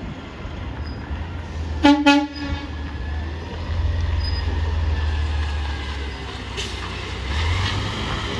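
A vehicle horn gives two quick blasts about two seconds in, over a steady low engine rumble.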